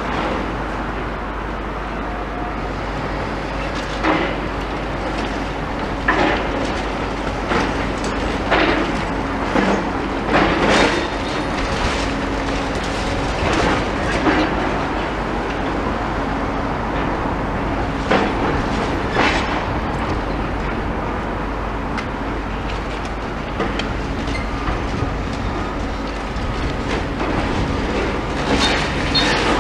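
Demolition excavator working: a steady engine drone, broken by irregular clanks and crashes of debris.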